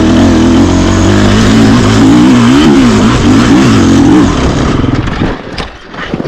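Dirt bike engine running hard at high revs, its pitch rising and falling with the throttle, then dropping away about five seconds in.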